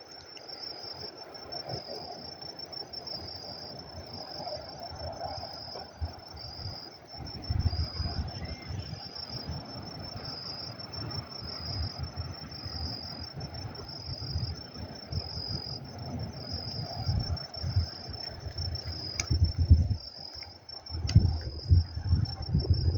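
Insects, most likely crickets, giving a steady high-pitched pulsing trill that swells about once a second. Irregular low rumbling bursts come and go, strongest near the end.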